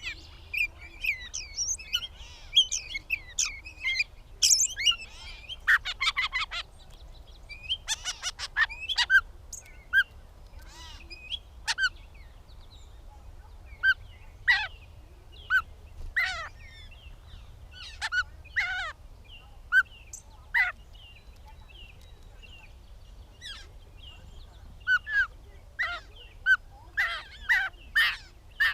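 Gray catbird singing: a long run of varied short notes and slurred phrases with pauses between them, broken by two brief rattling notes about six and eight seconds in.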